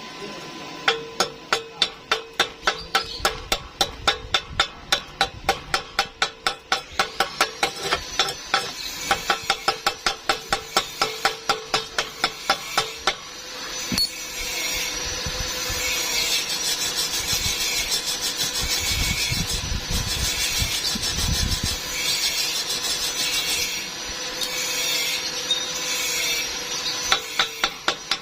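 Rapid hammering on metal, about five strikes a second. It gives way to a long steady rasping hiss with a thin high whine, and near the end the hammering starts again.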